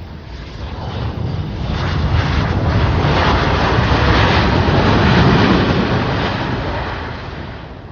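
A fixed-wing aircraft flying past: engine noise swells over a few seconds, peaks in the middle and fades away as it passes.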